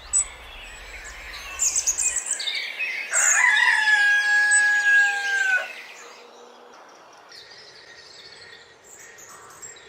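A rooster crows once, a long call held steady and dropping off at the end. High bird chirps come shortly before it.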